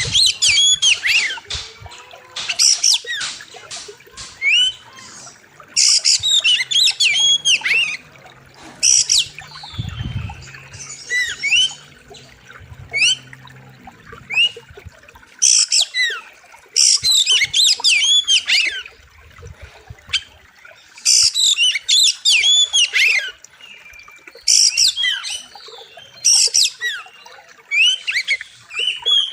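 Oriental magpie-robin (kacer) singing loud bursts of fast, varied whistled phrases, a new burst every two to three seconds.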